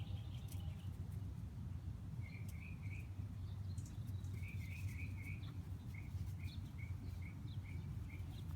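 A small songbird chirping: two short warbled phrases, then a run of single chirps about twice a second near the end, over a steady low rumble and a few faint clicks.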